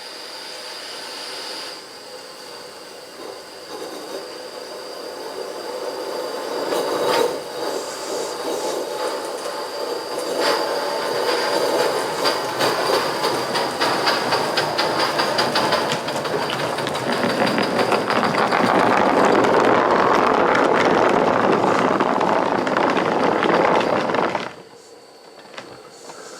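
Steam locomotive 4633 working as it pulls a cut of cars, its exhaust beats and wheels on the rail growing steadily louder, over a steady hiss. The sound cuts off suddenly near the end.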